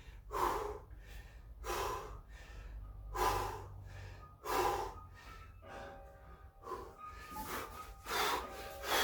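A man breathing hard from exertion mid-set, with heavy, noisy exhalations about every second and a half.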